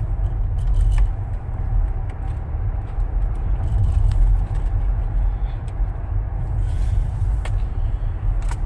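Car cabin noise while driving: a steady low engine and road rumble, with a few light clicks.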